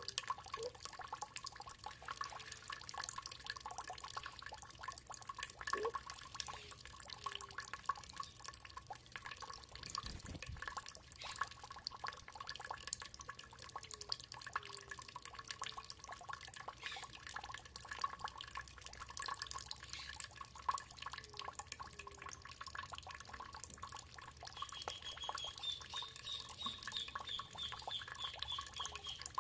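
Water trickling and dripping, a dense patter of small drips, with a songbird's quick run of high notes near the end.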